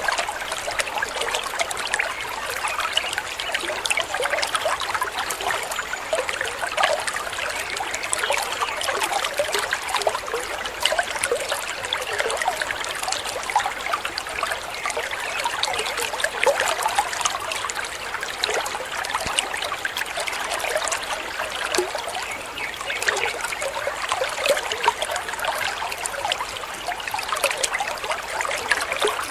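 Waterfall water trickling and splashing steadily.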